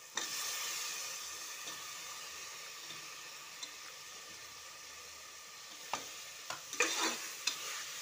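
Cubed potatoes tipped into hot oil and masala in an aluminium pressure cooker set off a sudden burst of sizzling that slowly settles. Near the end, a metal slotted spoon clicks and scrapes against the pot a few times as the vegetables are stirred.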